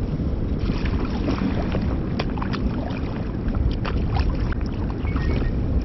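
Water lapping and splashing in small drips and slaps around a kayak, over a steady low rumble of wind on the microphone.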